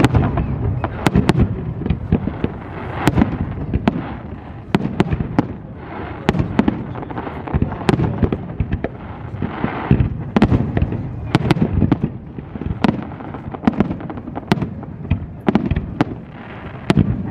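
Aerial fireworks display: a rapid, irregular run of shell bursts and sharp bangs, often several a second, over a continuous low rumble.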